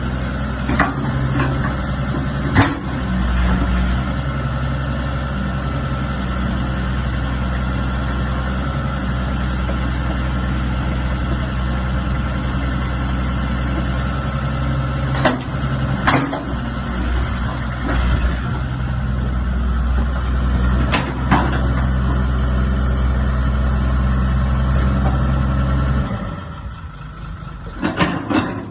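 Hitachi UH062 13-tonne excavator's diesel engine running steadily, with a few sharp clunks, then shut off near the end and running down to a stop.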